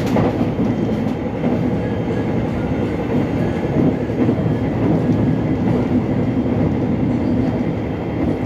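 Korean subway train running, heard from inside the car: a steady rumble of wheels on the rails and running gear, with some light clatter.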